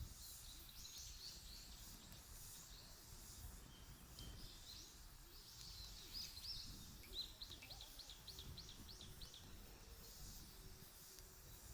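Faint songbird chirps and calls, with a quick run of repeated chirps about seven seconds in, over a low outdoor rumble.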